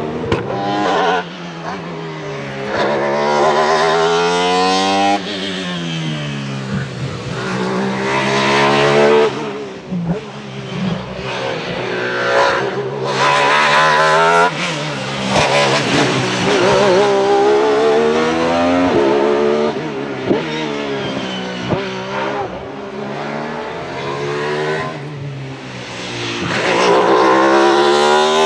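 Alfa Romeo 155 V6 TI DTM race car's V6 engine, revving hard again and again: the pitch climbs, falls back sharply at each gear change or lift, and climbs again, with the loudest pulls about 4, 9 and 28 seconds in.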